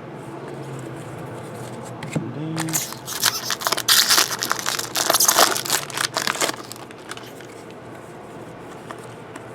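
Trading cards and their packaging being handled, a dense crinkling and rustling with many small clicks for about four seconds in the middle.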